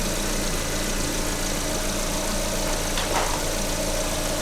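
Lada VAZ-21127 1.6-litre 16-valve four-cylinder engine idling steadily, its timing-belt tensioner roller sounding normal. A brief scraping rasp about three seconds in.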